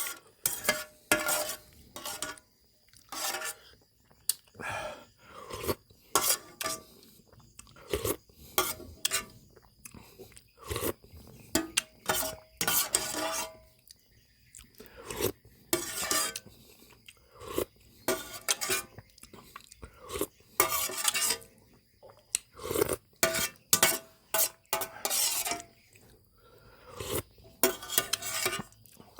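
Spoon clinking and scraping against a bowl, with chewing in between, as someone eats tom yum shrimp soup. The sounds come in many short, irregular bursts.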